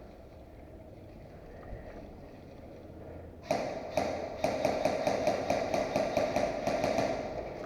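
Airsoft gun firing a rapid string of shots, about six sharp cracks a second, starting about three and a half seconds in and running for roughly four seconds.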